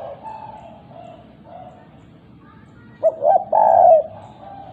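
Spotted dove cooing in the 'kuk 2' call pattern used as a lure call: a run of soft, low coos, then a much louder burst of coos about three seconds in.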